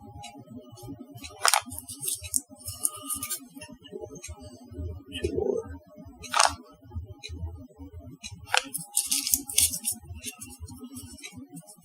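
Hands working at a pastry bench: three sharp clicks or taps and two spells of crinkly rustling as candy-melt decorations are made.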